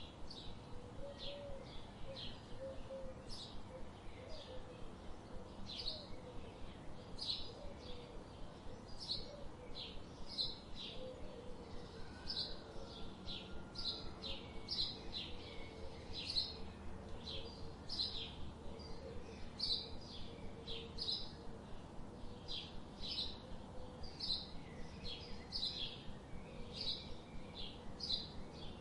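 Forest birdsong: short high chirps repeating about twice a second, over soft outdoor background noise. A faint, low wavering call runs underneath until about two-thirds of the way through.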